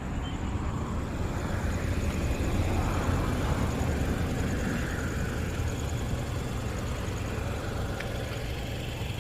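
Road traffic: a vehicle goes by, swelling about three seconds in and then fading, over a steady low rumble of street noise.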